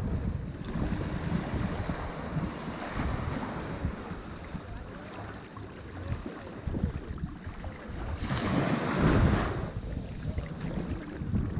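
Ocean waves washing on a shore, with one wave breaking louder about eight seconds in and falling away a second or so later. A gusty low rumble of wind buffets the microphone.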